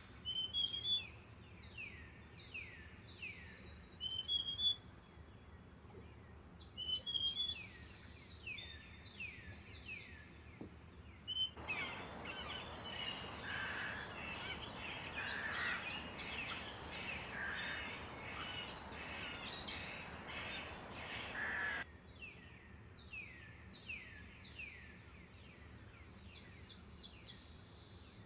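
Forest songbirds singing: short, repeated, falling phrases over a steady high-pitched drone. For about ten seconds in the middle, a louder, denser chorus of birds comes in over an even rushing hiss, starting and stopping abruptly.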